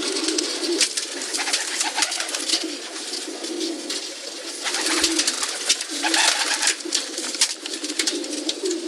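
Pigeons cooing, a low warbling coo that hardly breaks, with many sharp clicks and rustles over it.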